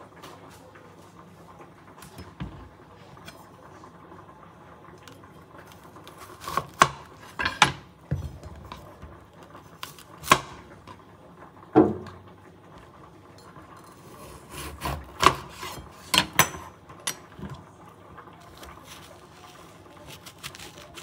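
Kitchen knife cutting through a bitter melon on a bamboo cutting board: about a dozen sharp knocks of the blade striking the board, in scattered groups with pauses between.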